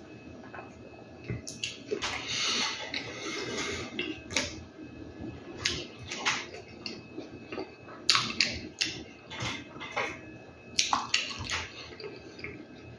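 Close-up eating sounds: wet chewing of a mouthful of food, with sharp lip smacks and clicks every second or so, loudest about eight seconds in.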